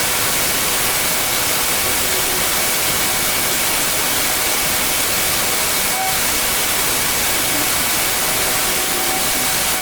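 Pressure washer jet spraying water in a steady, unbroken hiss, with a faint steady machine hum underneath.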